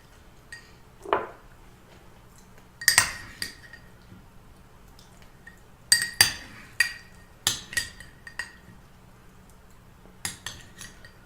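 Eating utensils clinking against a dish in several small clusters of sharp, ringing clinks, with a short falling scrape about a second in.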